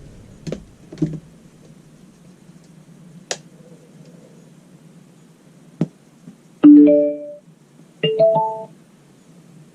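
Small DIY Bluetooth speaker with Dayton Audio ND65-4 drivers playing two short piano-like chords, the second higher than the first, after a few sharp clicks over a low steady hum.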